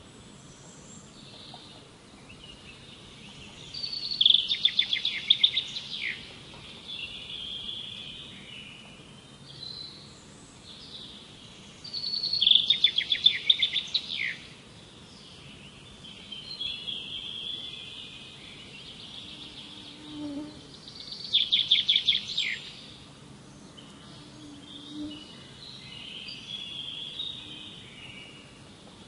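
Songbirds singing: one bird gives a loud, rapid trilled phrase three times, roughly every eight seconds, each ending in a quick downward note, with softer high chirps from other birds in between.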